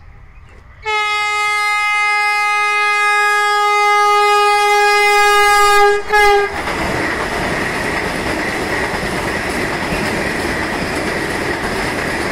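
Indian Railways locomotive horn sounding one long blast of about five seconds, ending with a short second blast, followed by the steady running noise of a train's wheels on the rails.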